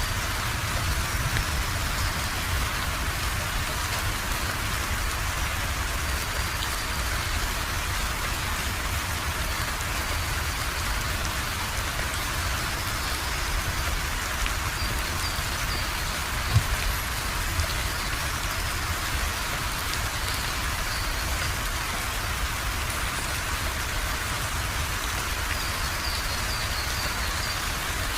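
Steady rainfall, an even hiss of rain with a low rumble underneath. A single sharper knock comes a little past halfway.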